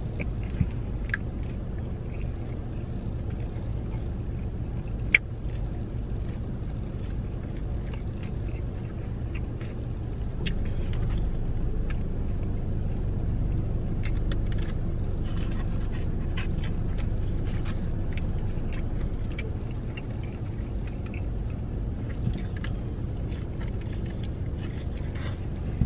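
Close-up eating sounds: chewing of fried chicken and fries, with scattered clicks and crackles from handling the food and its tray, one sharp click about five seconds in and denser crackling in the middle. A steady low rumble from the car's cabin runs underneath.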